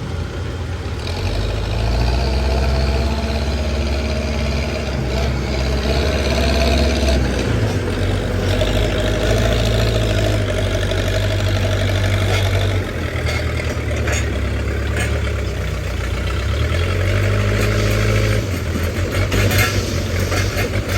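Backhoe loader's diesel engine running under working load, its revs rising and falling several times, with a whine from the hydraulics as it works.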